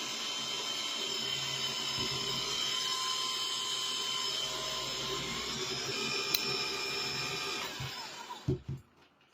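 Small 48-volt, 1000 W electric outboard motor running at a steady speed with a high whine, then winding down and stopping about eight seconds in, followed by a couple of light knocks.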